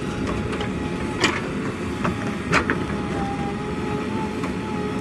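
Heavy diesel machinery running steadily under a thin constant tone. Two sharp metallic clanks cut through it, about a second in and again about two and a half seconds in.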